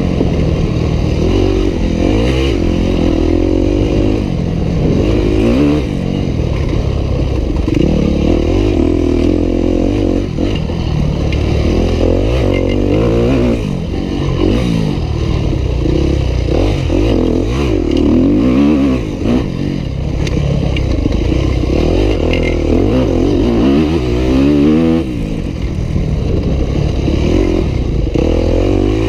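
Yamaha YZ250F four-stroke single-cylinder dirt bike engine being ridden hard, its pitch rising and falling over and over with throttle and gear changes, with brief drops off the throttle now and then.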